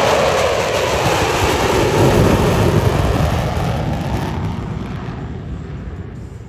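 Blue Angels F/A-18 Super Hornet jets making a loud pass, with a jet roar whose pitch drops as they go by. The roar then fades steadily over the last few seconds as they fly away.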